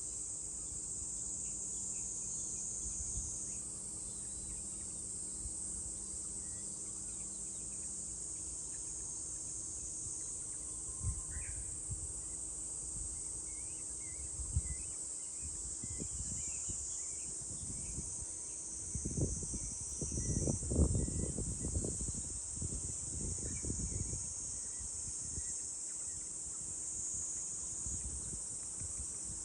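Summer cicadas shrilling in a steady, high, unbroken chorus, with a few faint bird chirps. Bouts of low rumbling come about two-thirds of the way through.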